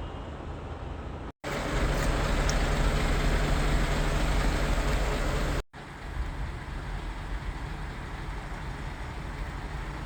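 A Scania lorry's diesel engine runs to drive its HIAB hydraulic loader crane during a lift. The sound comes in three clips cut sharply together; the middle one, from about a second and a half in to nearly six seconds, is louder.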